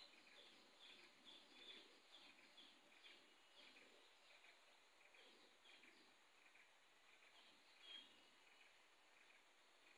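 Near silence with faint bird chirping: short, high chirps repeating about two or three times a second, the sharpest about eight seconds in, over a few soft rustles.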